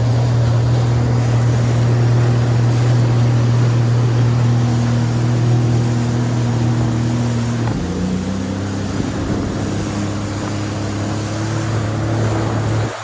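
Jet ski engine running steadily under way, its note dropping abruptly about eight seconds in as the throttle eases, then slowly rising again.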